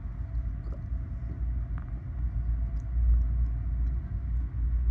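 Passenger train in motion, a steady low rumble heard from inside the carriage.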